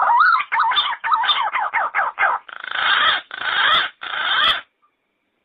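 Yellow-footed green pigeon calling: a run of quickly wavering whistled notes, then three harsher, rasping notes, stopping about four and a half seconds in.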